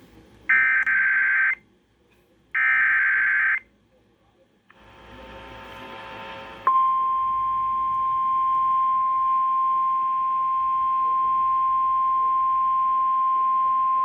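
Emergency Alert System broadcast heard over FM radio, announcing a severe thunderstorm warning. It opens with two one-second bursts of the buzzy digital SAME header data tones. About seven seconds in, a steady single-pitch 1050 Hz weather-alert tone starts and holds.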